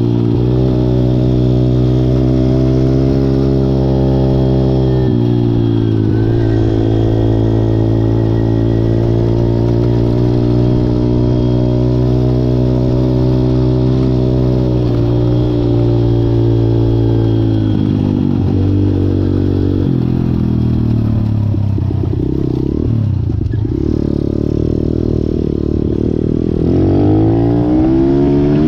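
Malcor XZ1 125cc pit bike engine running at fairly steady revs, with a shift in pitch about five seconds in. After about eighteen seconds the revs drop and waver, then they rise again near the end.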